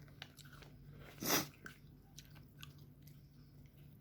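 Close-miked chewing of fried rice with chicken: small wet mouth clicks and crunches, with one louder sound about a second in.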